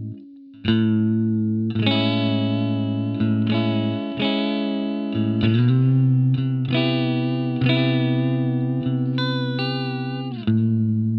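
Electric guitar played through a TC Electronic Corona Chorus pedal running a custom modulation Toneprint: after a brief pause, chords struck about once a second and left to ring, their pitch wavering with the effect.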